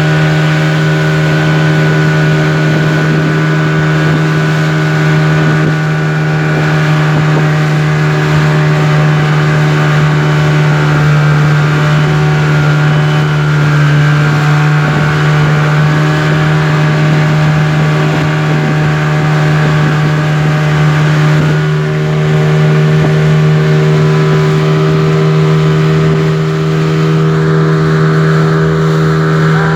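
Speedboat engine running steadily at speed, a loud constant drone that holds one pitch.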